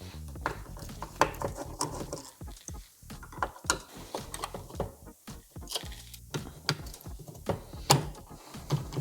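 Irregular clicks and small knocks of a screwdriver working T20 Torx screws out of the plastic pump housing, with parts being handled between them.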